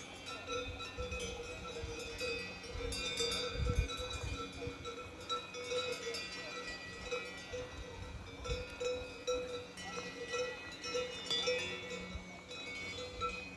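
Cowbells ringing and clanking irregularly as grazing cows move, the strikes overlapping and repeating throughout, with occasional low rumbles underneath.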